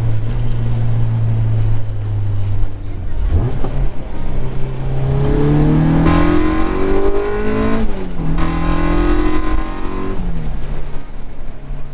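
Honda four-cylinder engine running while driving: a steady note, then climbing in pitch as it accelerates for about four seconds, dropping sharply at a gear change near eight seconds, and dropping again near ten seconds as it eases off.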